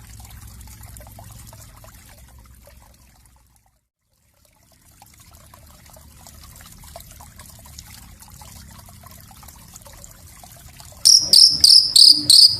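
A small songbird bursting into loud, rapid, high-pitched chirps, about five a second, near the end. Before that there is only a faint trickling-water hiss, which cuts out briefly about four seconds in.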